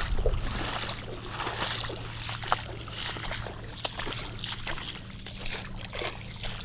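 Water dripping and sloshing around a freshly hauled sardine net full of bait fish, with scattered small splashes and clicks throughout and a steady low hum underneath.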